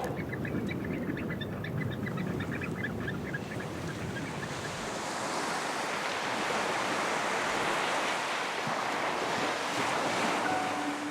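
Surf washing ashore, a broad rushing noise that swells after the first few seconds. Over it, in the first few seconds, comes a fast run of short, high bird calls. A low steady musical tone enters near the end.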